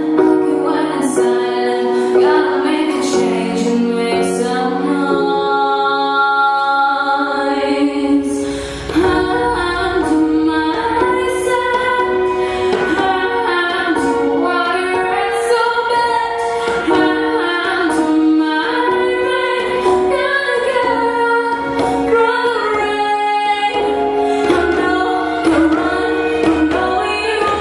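A female voice singing a pop song over a backing track; a beat comes in about eight seconds in.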